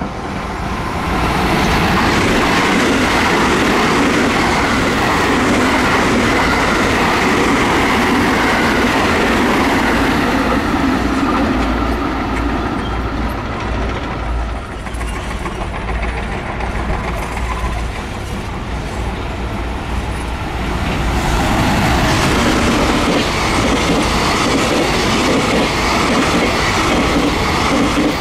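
A JR West 223-series electric train runs past, loud for over ten seconds, then dies down. After a short lull a long freight train of container wagons rolls past close by.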